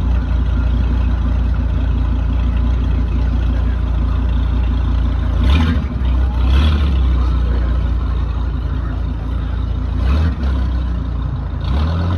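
Dodge Viper V10 engine running with a low, steady note, briefly revved four times, twice around the middle and twice near the end.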